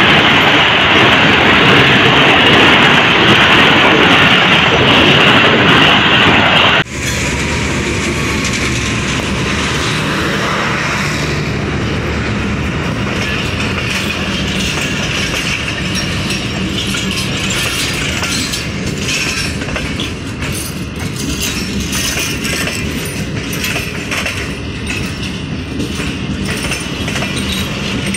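Pakistan Railways passenger train coaches rolling past along a platform with a steady rumble and rattle of wheels on rail. For the first seven seconds there is a louder, harsher rushing noise that cuts off abruptly, and a few faint ticks come through near the end.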